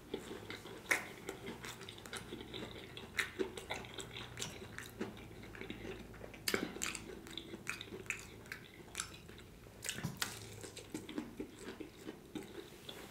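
A person chewing a fried salmon croquette with the mouth closed: a run of soft, wet mouth clicks, with a few louder ones.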